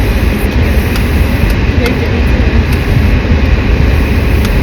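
Steady road and engine rumble of a moving car heard from inside the cabin, heavy in the low end.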